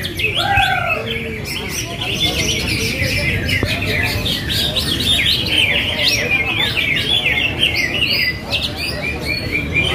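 A chorus of many caged greater green leafbirds (cucak hijau) singing at once: dense, overlapping, rapid chirps and trills with no pause. There are a few lower whistled notes in the first second, over a low background murmur of people.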